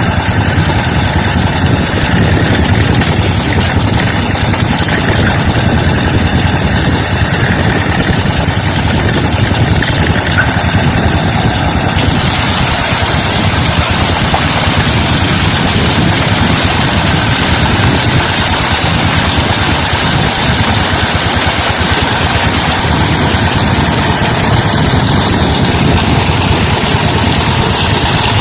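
16 HP Petter-type diesel engine running steadily with an even, rapid firing beat. The hiss on top grows brighter about twelve seconds in.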